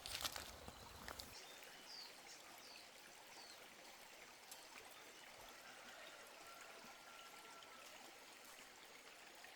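Faint, steady rush of running water, like a small stream, with a few light knocks at the start and a few short high chirps about two to three seconds in.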